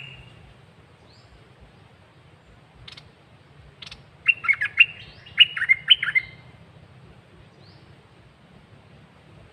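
Caged songbird singing. A few single chirps come first, then a burst of rapid, swooping whistled notes about four seconds in, lasting about two seconds.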